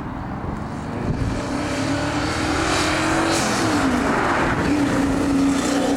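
Twin-turbo V12 of a Zonda-style kit car under hard acceleration, in loud wind noise. The engine note climbs, drops about three seconds in, climbs again and drops near the end.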